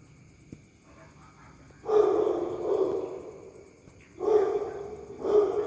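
Three loud, strange calls from a gecko, which the title calls a cicak (house gecko). The first starts about two seconds in and lasts about a second and a half; two shorter calls follow near the end. Crickets chirp faintly and evenly underneath.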